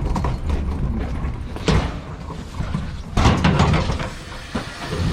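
Garbage truck running with a low engine rumble and mechanical rattling, with two louder metal clanks about a third of the way in and again past halfway.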